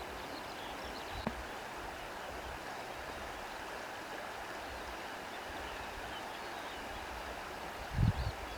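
Steady rushing wash of sea water with reeds rustling in the wind. A short click about a second in and a brief low thump near the end.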